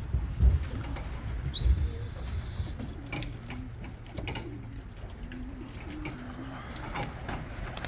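A single loud whistle, rising at first and then held for about a second, followed by faint low pigeon cooing.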